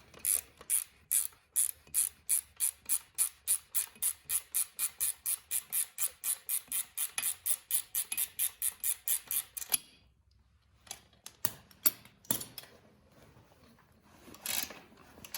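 Ratchet wrench clicking steadily, about four clicks a second, as it backs out the lower shock bolt on a dirt bike's rear suspension. It stops after about ten seconds, and a few loose clicks and a knock follow.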